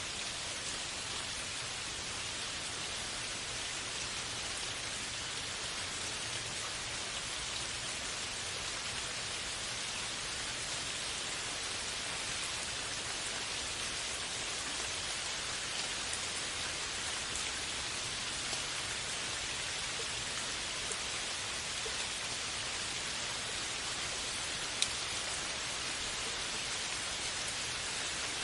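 Steady rain falling, an even hiss with faint scattered drop ticks and one sharper tick a few seconds before the end.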